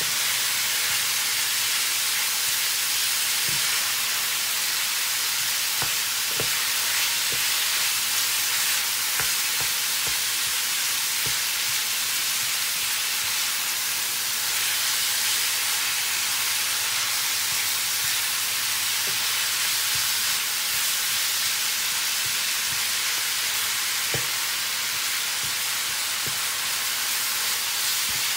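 Minced pork sizzling steadily in a hot frying pan as it is stirred with a wooden spatula, with a few light knocks of the spatula against the pan.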